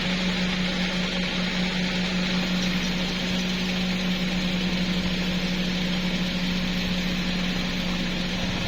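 A motor running steadily, with a constant low hum over an even hiss.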